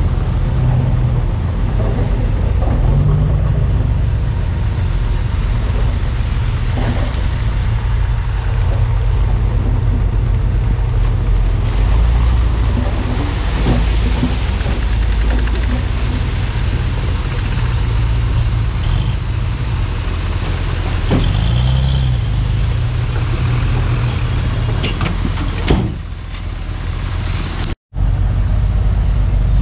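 Komatsu D51PX crawler bulldozer's diesel engine running steadily under load, with scattered knocks and clanks from the machine. The engine note rises briefly about two-thirds of the way in, and the sound drops out for an instant near the end.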